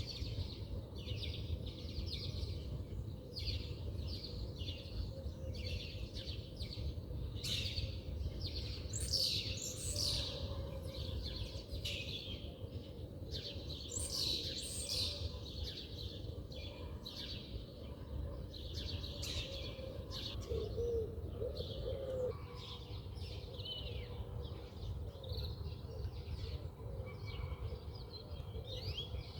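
Wild birds chirping and calling, many short chirps and trills overlapping throughout, over a steady low background rumble.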